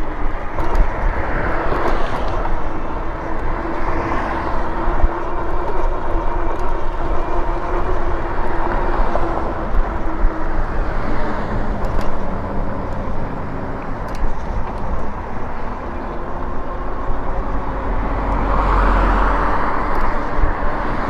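Wind and road noise from riding an e-bike along a town street, with a faint steady hum underneath. Vehicles swell past a few times, the loudest and deepest near the end.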